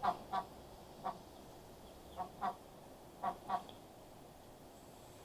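Mother duck with her ducklings giving short, soft quacks, about seven of them and mostly in close pairs.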